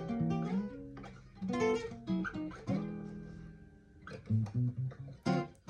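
Guitar playing a blues phrase between sung lines: picked notes and chords, a chord left ringing about halfway through, then low bass notes and a sharp strum near the end.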